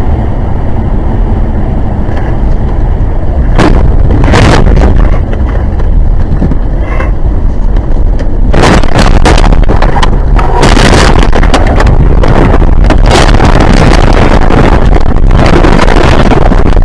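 Loud, steady rumble of road and wind noise from a moving car, picked up by a dashcam microphone, with several sharp bangs or knocks spread through it.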